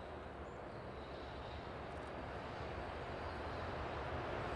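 JR Freight EH500 electric locomotive hauling a container freight train on approach. Its running noise grows steadily louder as it draws nearer.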